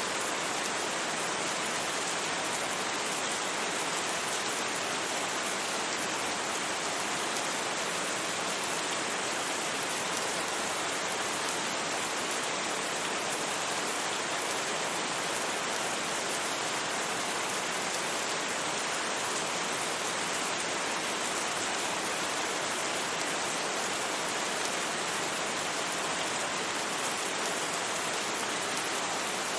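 Steady rain, a dense even hiss that holds at the same level throughout.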